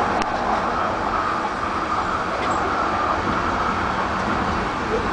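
Steady running noise of a moving passenger train, heard from inside the carriage, with a light click about a quarter second in.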